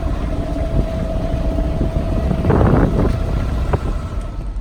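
A boat's motor running steadily while underway, a low rumble with a steady whine above it. About two and a half seconds in there is a brief louder burst of noise.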